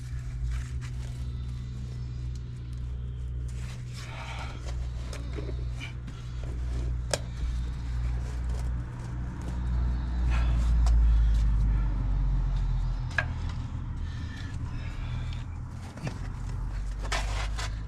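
A low, steady engine-like rumble that swells about ten seconds in, with a few sharp knocks over it.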